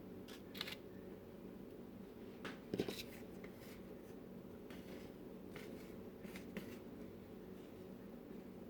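Soft rustles and light taps of hands setting cut cinnamon-roll dough pieces onto a parchment-lined baking tray, with a short cluster of louder knocks almost three seconds in, over a steady low hum.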